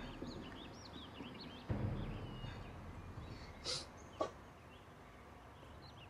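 Faint chirping of small birds: many short notes rising and falling in pitch. A dull thump comes a little under two seconds in, and a short hiss comes near the four-second mark.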